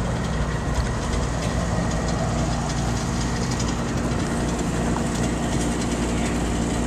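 A car engine idling close by: a steady low hum with no change in pitch.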